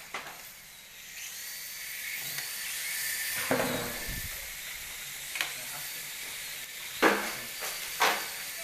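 A steady high hiss with a faint high whine, broken by four sharp clacks, the loudest two near the end, as things are handled during packing work.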